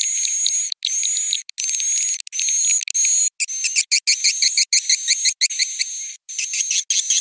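Swiftlet twittering from a 'suara inap' roosting-call lure track: a dense run of high chirps and trills over a thin steady whistle, cut by abrupt short gaps every half second or so. The chirps turn faster and choppier about three seconds in. This is the sound that swiftlet farmers play to draw swiftlets into a nest house to roost.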